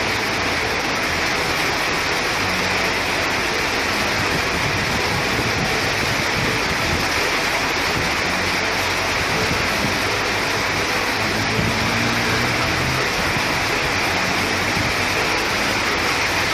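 Heavy rain pouring down in a dense, steady hiss, with the low engine hum of traffic passing along the flooded road now and then.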